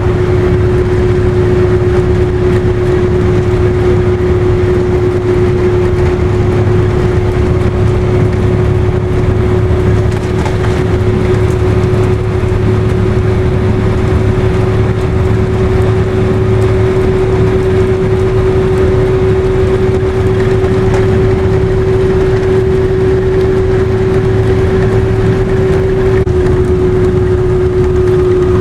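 Car driving on the highway: a steady, loud drone of engine and road noise with a constant hum.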